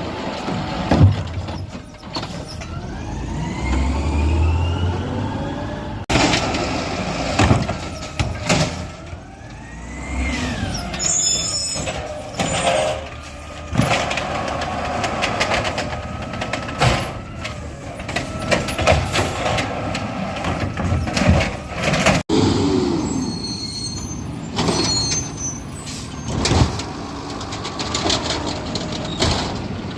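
Garbage trucks at work: engines revving up and down, with many knocks and bangs throughout, and the sound breaking off abruptly twice.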